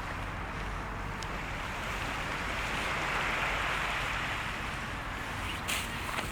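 Surf washing onto the shore, swelling to a peak and receding, with a sharp pop near the end.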